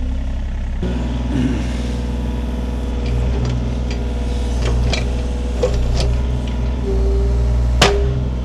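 Diesel excavator engine running steadily, its note changing about a second in, with several sharp metallic clanks, the loudest near the end.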